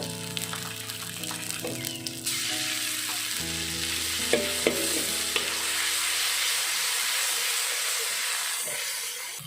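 Food stir-frying in hot oil in a pan: a loud, steady sizzle that starts suddenly about two seconds in, as if ingredients were dropped into the hot oil. Background music with plucked notes plays under it and fades out a few seconds later.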